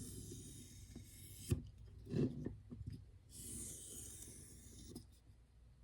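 Knife blade of hardened Nitro-V steel drawn along a sanded leather strop loaded with 1.5 micron diamond spray: two long hissing strokes, with two knocks between them.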